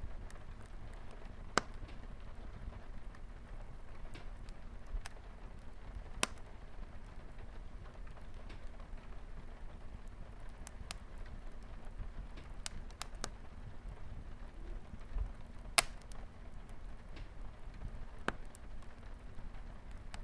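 Wood fire crackling in a fireplace, with scattered sharp pops (the loudest about 16 seconds in) over a steady hiss of light rain on a window.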